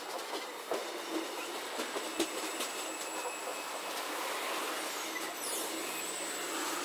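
Couchette coaches of a departing night train rolling past, their wheels knocking over rail joints several times in the first couple of seconds, with a brief high wheel squeal about five and a half seconds in.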